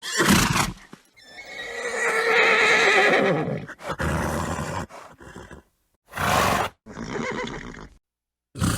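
A horse whinnying: one long, wavering neigh about a second in, with short noisy snorts before and after it, separated by brief silent gaps.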